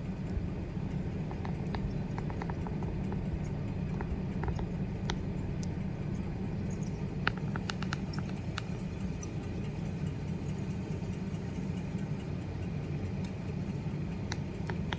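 A vehicle engine idling steadily, with scattered short snaps and cracks, the kind made by an elephant breaking and stripping branches as it feeds. The snaps bunch up about a second and a half in and again around the middle.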